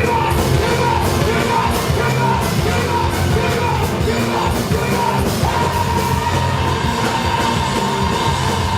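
Live rock band playing the closing bars of a song at full volume: drums, bass and guitars, with wavering voice-like notes and, from about halfway, one long held high note.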